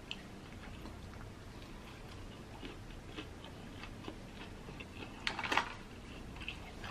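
Quiet close-miked chewing of a crispy hand-breaded fried chicken sandwich: soft crunches and mouth clicks, with one louder burst of noise a little after five seconds in.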